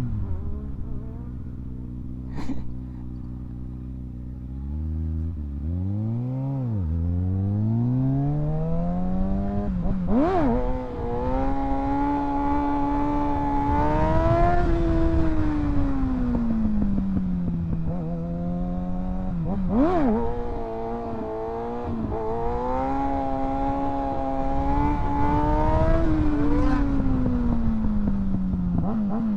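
Kawasaki ZX-6R 636's inline-four engine ticking over low, then revving up and pulling through two long accelerations, each rising in pitch, holding high for a few seconds and falling away. There are two sharp clicks, about ten and twenty seconds in.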